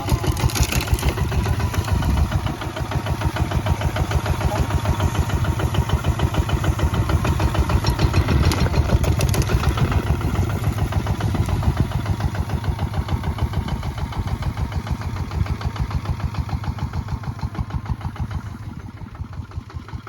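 Kubota ZT155 diesel engine running with a steady, rapid beat of firing pulses, growing quieter in the last few seconds.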